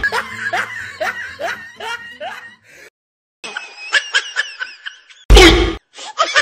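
Dubbed-in laughter sound effects: a run of snickering laughs, a brief pause about three seconds in, then a second, faster run of laughter. About five seconds in, a short loud burst breaks into the laughter.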